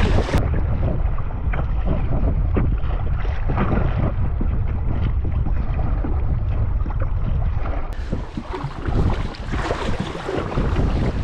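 Strong wind buffeting the microphone, with choppy waves splashing against a canoe on a whitecapped lake. The sound turns duller about half a second in and brighter again about eight seconds in.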